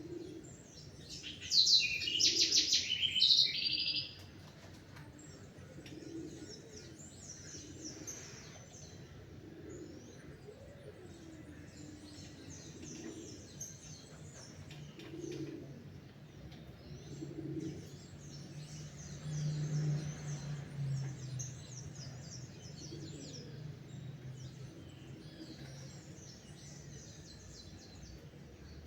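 A dawn bird chorus. One bird sings a loud, fast trilled song near the start, and many fainter high chirps and tweets carry on throughout. Low cooing notes repeat every second or two under the chorus, and a low hum comes in around the middle.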